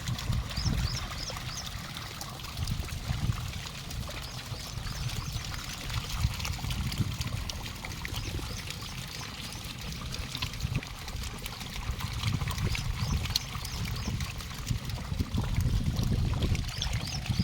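Rain falling steadily, with water trickling and pouring and many small drop ticks, over a low rumble.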